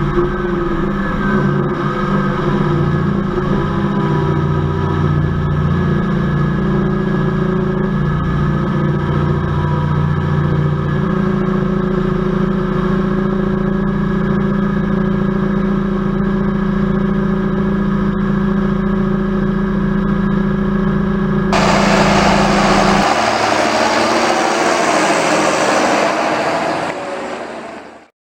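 John Deere tractor's diesel engine running steadily, its pitch shifting slightly about halfway through. About three quarters of the way in a loud hiss takes over, the engine sound drops away, and everything fades out just before the end.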